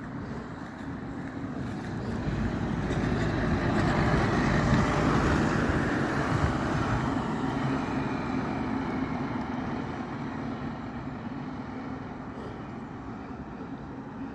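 Road traffic: a motor vehicle's engine and tyres passing close by, growing louder to a peak about four to six seconds in and then slowly fading, over a steady engine hum.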